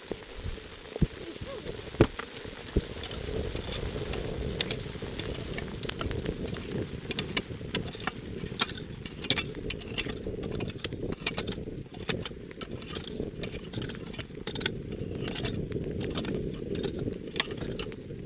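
Rain pattering: scattered sharp drops and taps over a steady low rumble, with a few louder knocks in the first three seconds.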